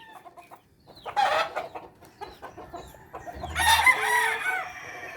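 Chickens calling: a short squawk about a second in, then a louder call lasting about a second and a half past the three-second mark.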